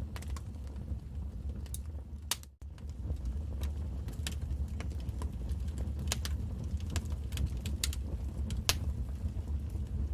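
Wood fire crackling: irregular sharp pops and snaps over a steady low rumble, cutting out for an instant about two and a half seconds in.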